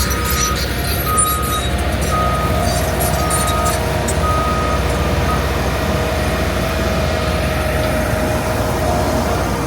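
Heavy diesel equipment running steadily, with a backup alarm beeping about once a second that stops about five seconds in.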